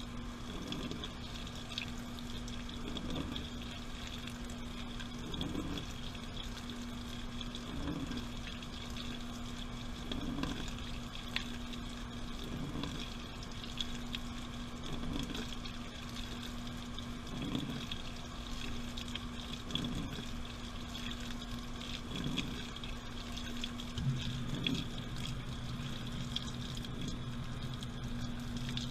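Washing machine drum turning with water inside, heard from inside the drum: a swish of sloshing water about every two and a half seconds over a steady motor hum. Near the end a second, lower hum joins in.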